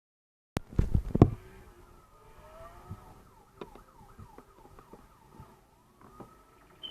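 Film car-crash sound effects: a sudden loud crash of several hard impacts about half a second in, followed by quieter scattered clatter with a siren wailing in rising and falling glides.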